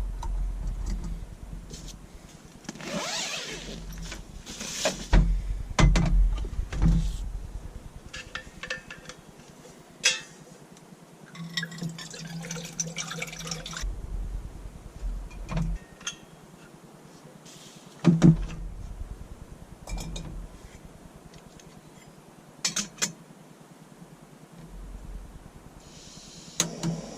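Coffee being made: water pouring and filling, with cookware and cups clinking and knocking in short, scattered bits of handling.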